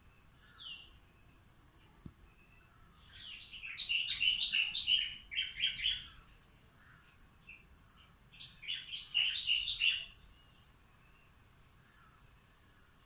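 A songbird singing two quick phrases of rapid, high chirping notes about four seconds apart, with a single short call note just before the first phrase.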